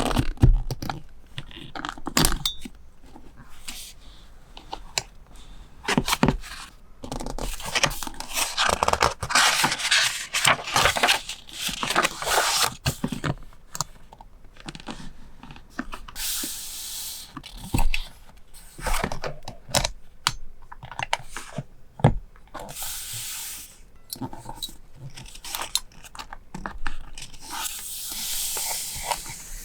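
Paper being handled for a scrapbook journal page: tearing and rubbing paper, with many small taps and clicks and several longer stretches of papery rustle.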